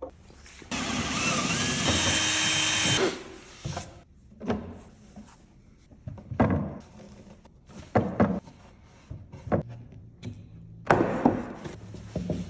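A power tool runs steadily for about two and a half seconds near the start. After it come scattered knocks and thunks of wood being handled, with a second short noisy burst near the end.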